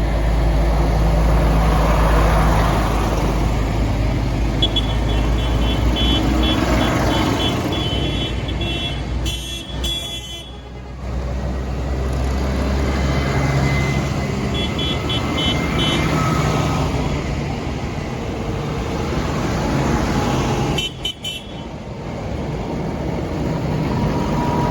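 Tractors in a convoy running steadily, with horns tooting in quick repeated blasts several times.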